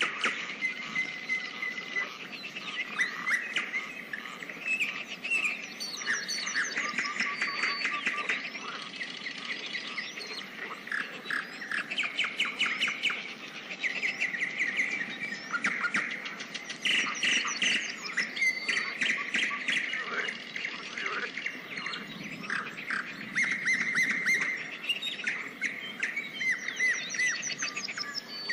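Several songbirds chirping and singing over one another, with short whistled notes and quick rattling trills coming again and again.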